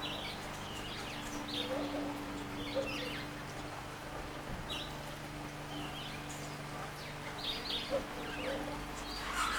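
Garden birds giving short, scattered chirps over a steady low hum.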